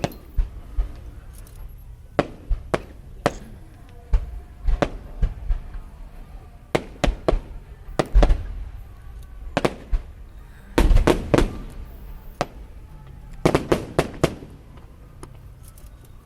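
Fireworks going off: a long series of sharp bangs at irregular intervals, with dense rapid clusters about eleven and fourteen seconds in, then thinning out near the end.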